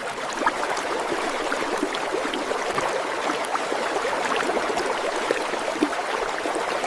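Heavy rain falling: a steady, dense hiss of many small drop ticks.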